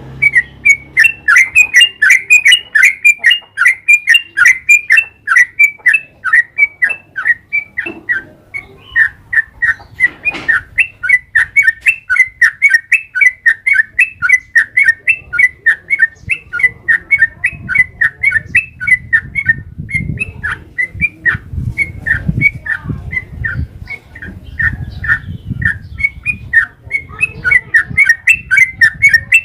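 Yellow-vented bulbul (trucukan) singing a long, unbroken run of quick chattering notes, about four a second. A low rumble sits underneath in the second half.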